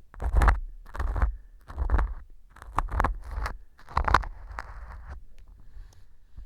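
Earpick scraping and crunching at pieces of dried wheat gluten (fu) glued like earwax inside a transparent ear tube, in about six short strokes, then only faint sounds near the end. The fu has soaked up the glue and stuck hard, so the pick grates against it.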